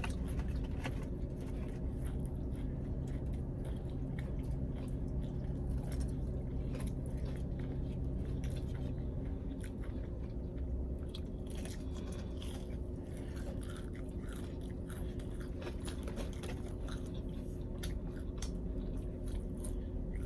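Close-up chewing and crunching of fried chicken tenders, with many small irregular crunches over a steady low hum.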